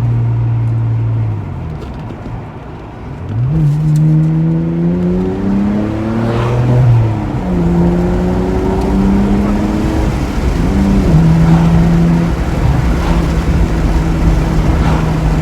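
BMW E92's N52 inline-six with the muffler deleted, accelerating: the exhaust note eases off briefly, then rises in pitch through two upshifts, about seven and eleven seconds in, before holding steady at cruise.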